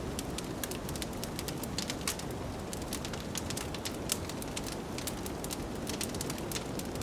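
Wood fire crackling with frequent sharp pops and snaps over a steady low rush of blizzard wind.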